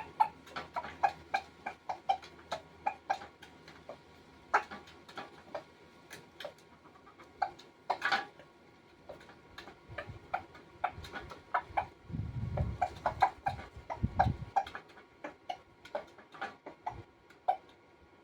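Rooster pecking at food, its beak tapping a hard surface in irregular sharp taps, several a second. Low rumbling thumps come about two-thirds through.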